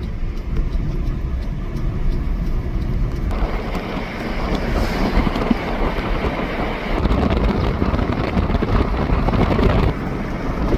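Car driving on a road: steady low engine and road rumble, with louder road noise building from about three seconds in.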